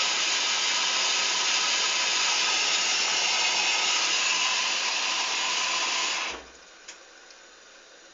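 Hoover Dynamic washing machine filling with water: a steady rushing hiss of water through the inlet valve that cuts off abruptly about six seconds in as the valve shuts, followed by a faint click.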